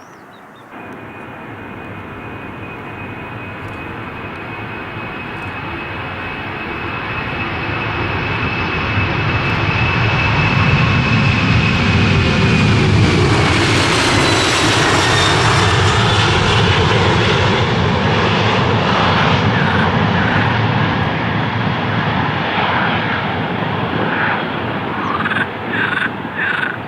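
A jet airliner passing close by: its engine noise builds steadily for about ten seconds, peaks midway, and a high whine in it drops in pitch as the aircraft goes past, after which the noise slowly fades.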